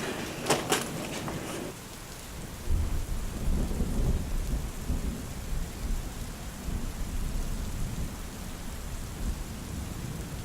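Steady rain with a long rumble of thunder that swells about three seconds in and slowly eases off. A few short sharp sounds come in the first couple of seconds.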